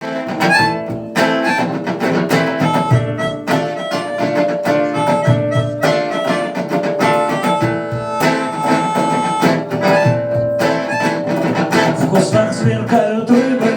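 A band playing a song's instrumental intro live, led by strummed guitar, with a long held melody note sounding over it twice.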